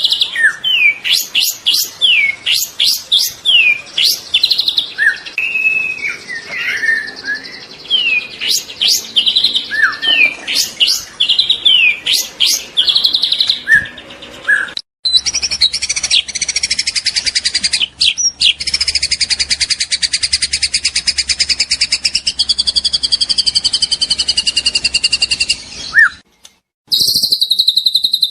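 Juvenile white-rumped shama singing loudly: a quick run of varied whistled sweeps and down-slurred notes. About halfway it switches abruptly to a long, fast buzzy trill, which breaks off briefly near the end before another trill starts.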